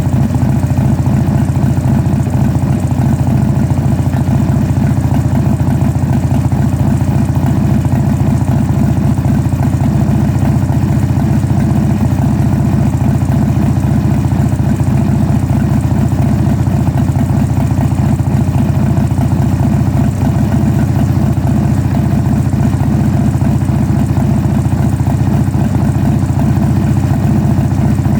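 Old car's engine idling steadily, running after its knock sensor was moved from the front of the engine.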